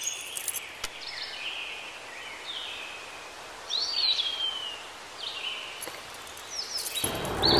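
Birds chirping: a handful of short whistled calls that rise and fall, the clearest about four seconds in, over a light outdoor hiss. Music starts up again near the end.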